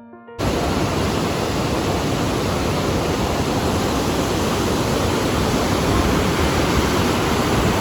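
A music clip cuts off about half a second in, and a loud, steady rushing noise follows, with no bangs or other distinct events in it.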